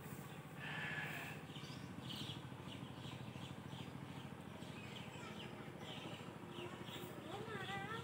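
Small birds chirping over and over in short quick notes, with a wavering call near the end and a low steady hum underneath.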